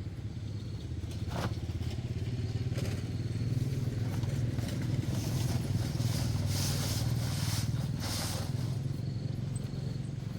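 Engine idling steadily, with an even low pulsing hum. A few short hissing or brushing noises come over it in the middle.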